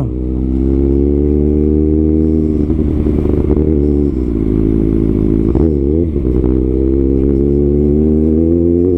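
Kawasaki ZX-6R inline-four engine through an Arrow titanium exhaust, running at steady revs while cruising. Its note dips and comes back briefly twice.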